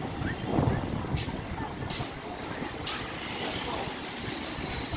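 Train rolling into a station: a steady low rumble with a few sharp clicks about a second apart, and a faint high whine in the second half.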